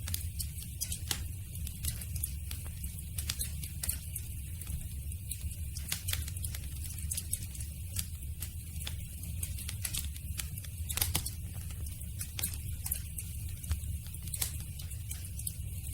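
Campfire crackling, with irregular sharp snaps and pops over a low steady rumble.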